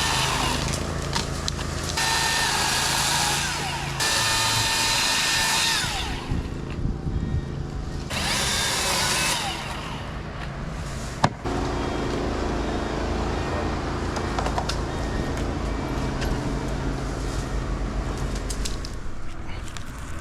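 Chainsaw cutting wood in three bursts of a few seconds each, over a steady low engine hum, with one sharp crack about eleven seconds in.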